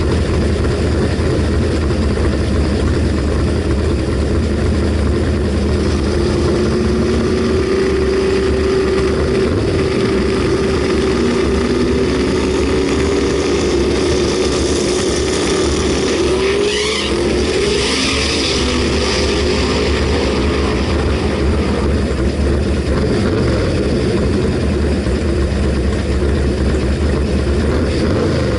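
Drag car engine running loud with a deep, steady rumble, its pitch slowly rising and falling in the middle, and a brief rush of higher sound a little past halfway.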